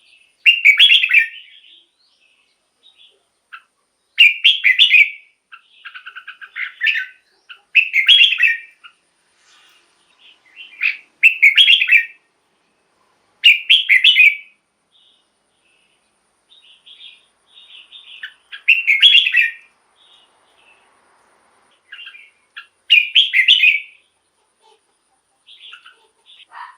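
Red-whiskered bulbul singing: short, bright warbled phrases of about a second, repeated every three to four seconds, with softer chirps in between.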